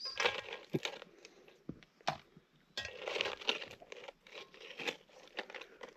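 Crinkling and crunching of tortilla chips being scooped out of a pan of campfire nachos, in two rustling bouts with a few sharp clicks and light clinks between.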